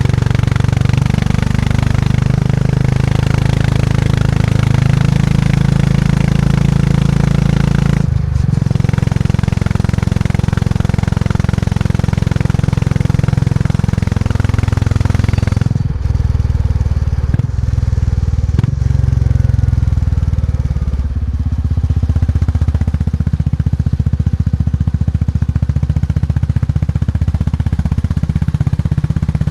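Vintage motorcycle engine running under way with a deep, steady exhaust note. The sound breaks off briefly about a quarter of the way in and a few times around the middle, and the engine note settles at a different pitch afterwards.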